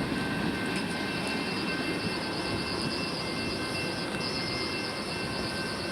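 A train rolling past at night: a steady, continuous rumble with faint high steady tones above it.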